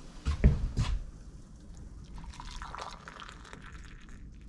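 A few light knocks, then liquid being poured into a cup, a cup of tea being made.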